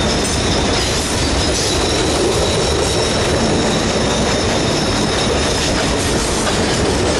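Ore train rolling past: a steady, loud run of wagon wheels on the rails with a thin high squeal from the wheels, as the train's rear-end GE AC44i diesel-electric locomotive goes by.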